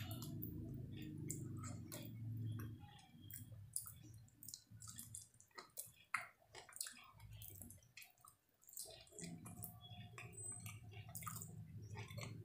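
Close-up eating sounds from a mouthful of chilli chicken and fried rice: wet chewing with many small, irregular lip smacks and clicks.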